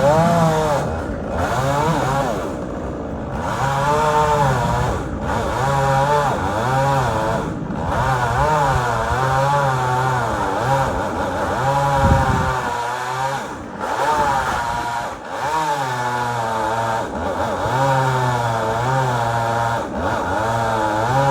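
Gasoline chainsaw cutting a post oak trunk. Its engine pitch rises and falls over and over as it labours in the cut and revs free, with brief drops every few seconds.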